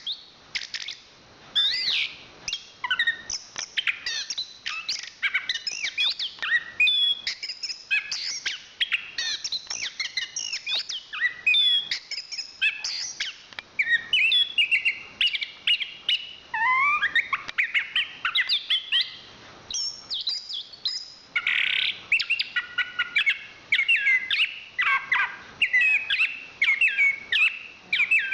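Chestnut-capped thrush (anis kembang) singing a continuous, fast, varied song of short whistled notes, chirps and trills, broken only by brief pauses.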